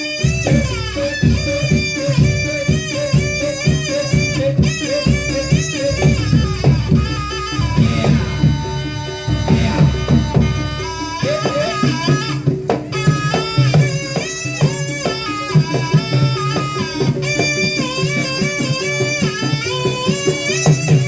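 Balinese traditional music: a melody of bending, sliding notes over steady hand-drum strokes.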